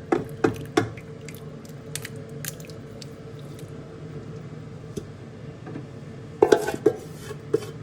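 Spoon scooping cooked chicken curry into a pot: soft squelching of the wet food with short clicks of the spoon against the pot, a few just after the start and a cluster about six and a half seconds in.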